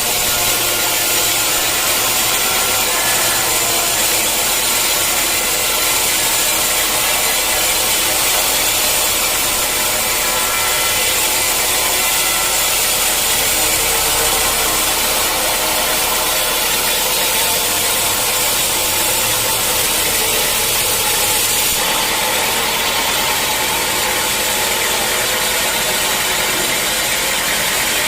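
Sawmill saw running steadily and cutting through a mahogany log: a loud, continuous whine and rasp of blade in wood, changing slightly in its hiss about three-quarters of the way through.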